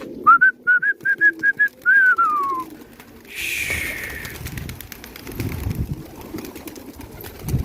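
A person whistling to pigeons as they are released: a quick run of about seven short high whistled notes, then one long whistle sliding down in pitch. About three seconds in comes a brief rushing hiss, followed by low wind rumble on the microphone.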